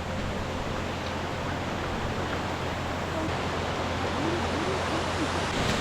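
Mountain stream rushing, a steady, even rush of water.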